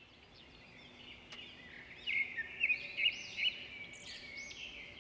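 Many birds chirping and calling at once, overlapping short high chirps and rising calls, with a run of louder sharp chirps in the middle.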